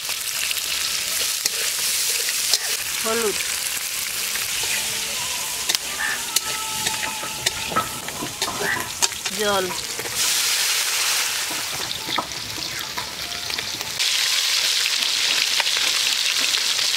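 Oil sizzling in a wok as raw mango pieces fry, with a metal spatula scraping and tapping against the pan as they are stirred. About fourteen seconds in, the sizzling gets louder as pieces of katla fish fry in hot oil.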